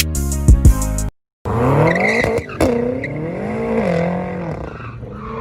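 Hip-hop music with heavy bass for about a second, cut off abruptly. Then a car engine revving hard, its pitch rising and falling several times, with tyres skidding.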